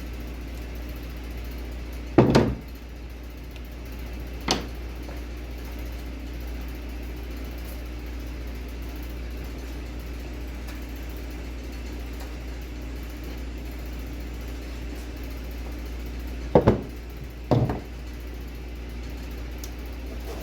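Four sharp knocks over a steady low hum: a doubled knock about two seconds in, a lighter one soon after, and two more near the end.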